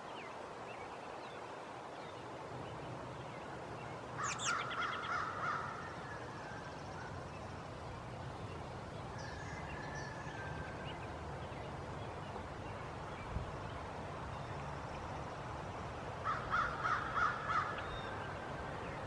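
Bird calls in two short runs of harsh, repeated notes, about four seconds in and again near the end, with a fainter call in between, over a steady outdoor hiss.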